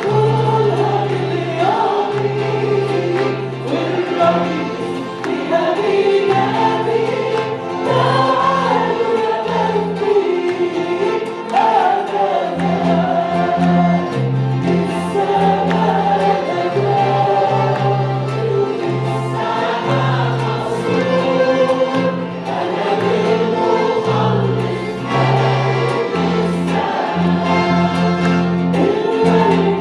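Christian worship song sung by a group of voices over instrumental accompaniment, the bass moving between held notes every second or so.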